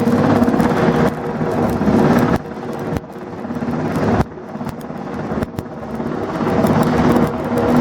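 A steady low mechanical hum, typical of a ship's engines, under a rushing wind-like noise. The sound jumps abruptly in level several times, as the footage cuts from one shot to the next.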